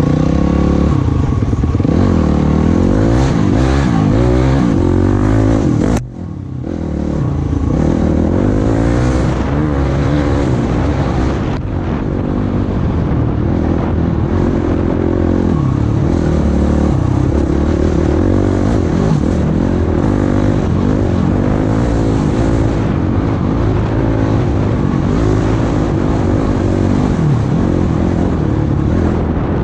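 Off-road vehicle engine running under varying throttle, its pitch rising and falling continuously as it revs up and down over the trail. The sound drops out sharply for a moment about six seconds in, then comes back.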